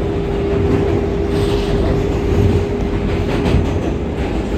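R188 subway train running at a steady speed, heard from inside the car: a low rumble with a steady motor whine, and a few wheel clicks over the rails.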